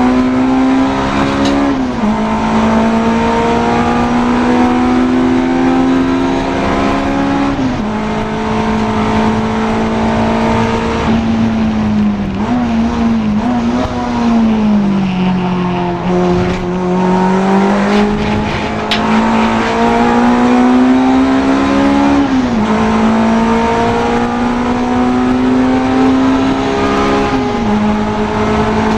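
Honda Integra DC2 race car's engine at full throttle, its pitch climbing through the revs and dropping sharply at each upshift, several times. In the middle the revs fall away and blip under braking and downshifts, then pull up through the gears again.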